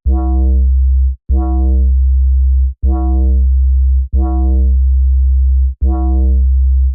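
Dub bass patch on Arturia's Pigments software synth playing five repeated notes of the same low pitch, each a little over a second long. Each note opens with a bright, metallic burst of overtones from envelope-driven phase modulation and filter opening, which fades after about half a second over a deep sustained bass tone.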